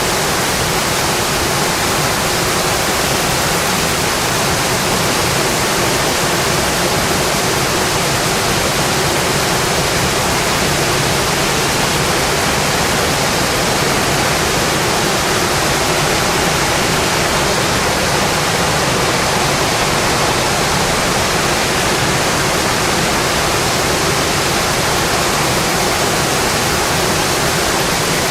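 Steady, dense rain drumming on a metal roof, an even hiss with no change in strength.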